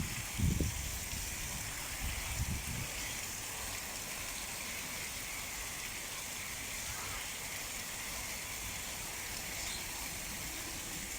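Sea surf breaking and washing on the shore: a steady hiss of waves, with a few low rumbles in the first three seconds.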